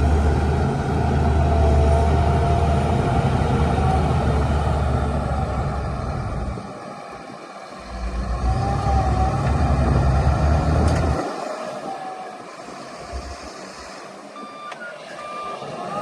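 Shantui DH17-C2 bulldozer working, its diesel engine running loud and steady. It dips briefly about seven seconds in and drops quieter after about eleven seconds, and a few short beeps come near the end.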